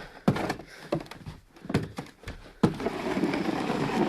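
Snow shovel knocking and scraping as snow is shovelled up: several sharp thunks over the first two and a half seconds, then a steady rushing noise.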